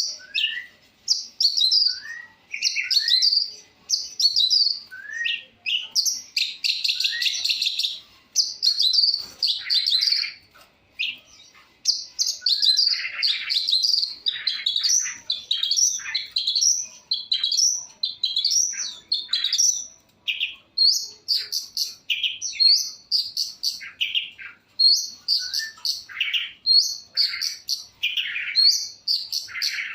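Long-tailed shrike (cendet) singing non-stop in a varied run of sharp chirps, short downward-slurred whistles and quick chattering phrases, with a dense burst of fast chatter about six seconds in.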